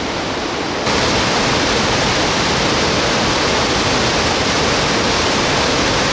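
Rushing water of a rocky mountain stream running high after monsoon rain, a steady roar of noise. About a second in it cuts abruptly to a louder, brighter rush.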